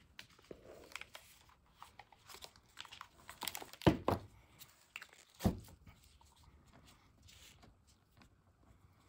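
Rustling, crinkling handling sounds with scattered small clicks, and two louder knocks about four and five and a half seconds in.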